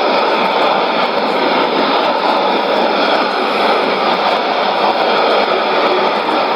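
Sony ICF-2001D shortwave receiver tuned to 11735 kHz giving out a steady, even rushing noise with faint steady tones underneath, the strange noise heard on the frequency instead of the station's programme.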